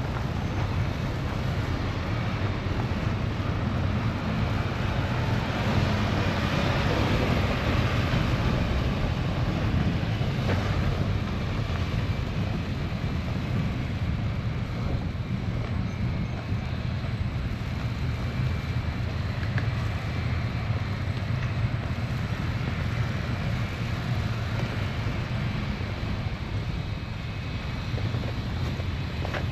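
Snowstorm wind blowing with a steady low rumble. The noise swells for several seconds about a fifth of the way in, then settles.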